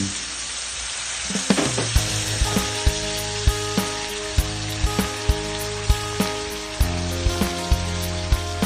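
Pork, onion and tomato sizzling in a pan with a little water just added, with irregular sharp pops. A steady low hum joins about a second in.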